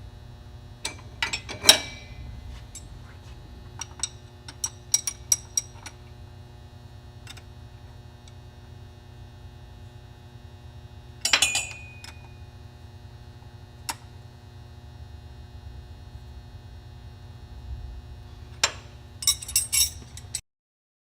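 An open-end wrench clinking against metal fuel return-line fittings as they are tightened: scattered sharp clicks and clinks over a steady low hum. The clinks come in a cluster near the start, a few more about four to five seconds in, single ones later, and a quick run near the end before the sound cuts off abruptly.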